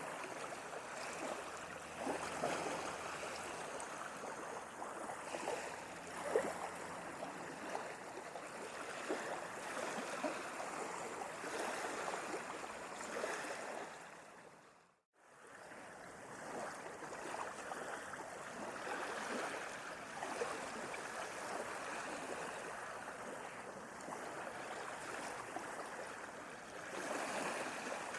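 Sea water washing and lapping, a continuous watery rush flecked with small crackles and splashes. About halfway through it fades out to a moment of silence and fades straight back in, like a loop point in the recording.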